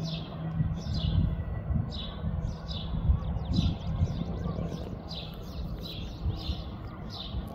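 A small bird chirping over and over, about two short falling chirps a second, over an uneven low rumble with a steady low hum in the first couple of seconds.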